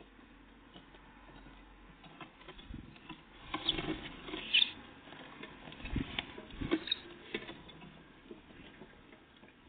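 Tits at a bird feeder, irregular taps and knocks of small birds pecking at food and hopping or landing on the feeder, busiest in the middle with scattered single taps near the end.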